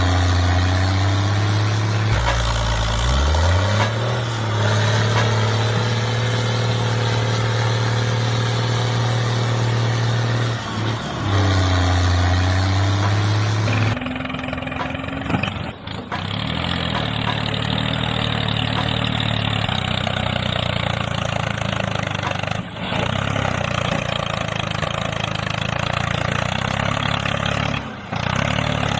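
A motor running steadily with a low hum, its pitch dipping and recovering a few times; about halfway through the sound changes abruptly to a rougher, busier running tone.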